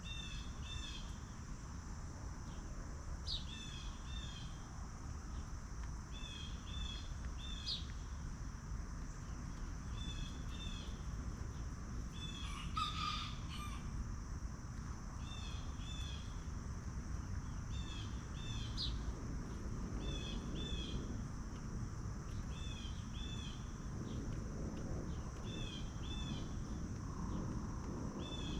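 A small bird repeating a short double chirp every couple of seconds, with one louder call about halfway through. Underneath runs a steady high-pitched insect drone and a low rumble.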